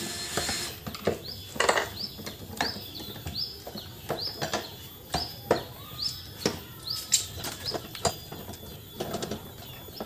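A bird calling over and over in short, hooked chirps, about two a second, from about two seconds in, with scattered light knocks and clicks.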